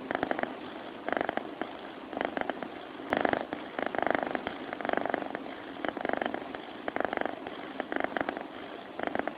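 A sleeping domestic cat purring, close to the microphone, in pulsing breaths that come about once a second, each with a rapid fluttering rattle.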